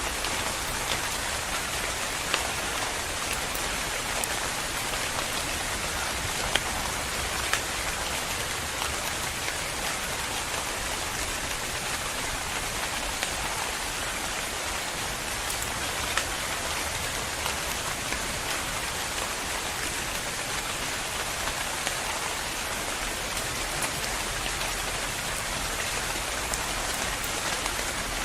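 Steady rain falling, a continuous hiss with individual drops ticking sharply here and there.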